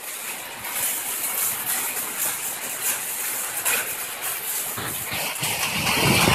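Heavy storm rain pouring down, a steady hiss with a fainter low sound swelling near the end.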